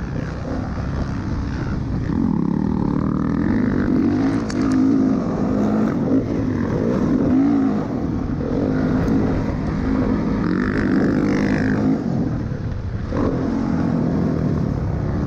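Dirt bike engine revving up and down while riding the track, its pitch rising and falling again and again as the throttle opens and closes.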